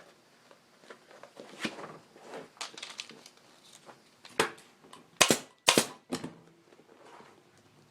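Upholstery work on a motorcycle seat pan: the seat cover is rustled and handled, then there are three sharp clacks a little past halfway, the last two the loudest and close together.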